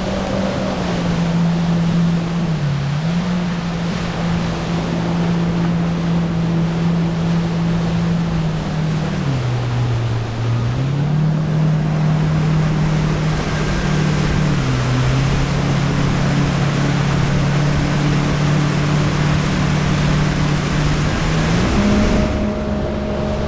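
Jet ski engine running at speed, a steady drone that drops in pitch a few times and rises again near the end, over a loud rush of water and wind.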